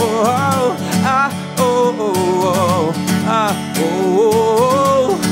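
Strummed acoustic guitar with a sung vocal melody and no clear words.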